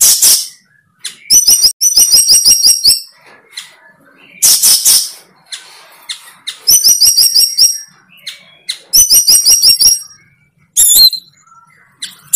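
A bird singing close by: phrases of rapid high trilled notes, several to a second, alternating every few seconds with short harsh bursts.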